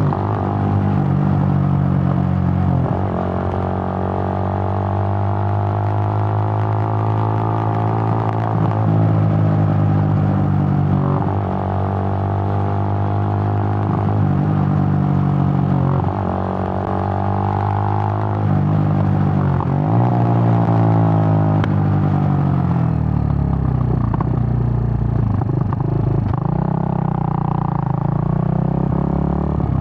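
Suzuki GN125's single-cylinder four-stroke engine running under way at steady revs, its note dipping and changing pitch briefly several times.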